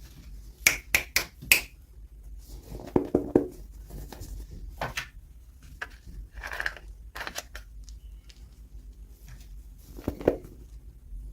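Hands unboxing small toy packaging: a quick run of four sharp clicks, then rustling and crinkling with scattered clicks and taps.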